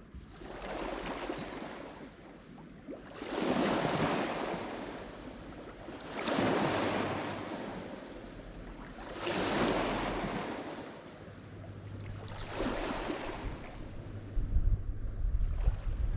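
Lake Michigan waves breaking on the shore, one after another about every three seconds, each surge swelling and washing away.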